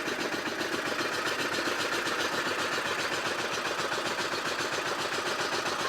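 Boat engine running steadily with a fast, even clatter.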